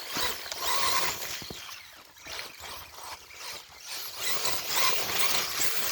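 Brushless Axial Wraith RC mud truck running through mud: its electric motor and tires churning and splashing in uneven surges, with wind buffeting the microphone.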